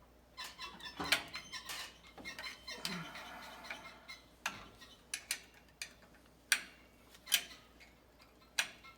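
Ratchet wrench clicking and metal clinking against the pump housing as bolts are loosened on a B&G Series 100 circulator pump. There are irregular sharp clicks with a short quick run of them about a second in, and a few louder single clinks later.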